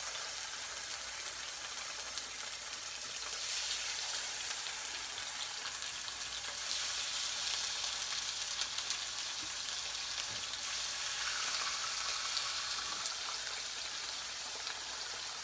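Raw pork chops sizzling in hot olive oil in a skillet, the sizzle swelling about three and a half seconds in and again about seven seconds in as more chops are laid into the pan.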